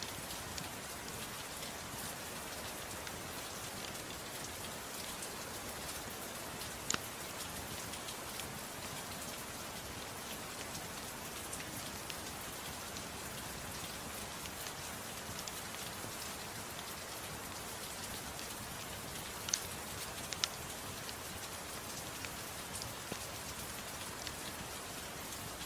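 Steady rain falling, an even hiss throughout, with a few sharp pops standing out over it, the loudest about a quarter of the way in and two close together about three quarters of the way through.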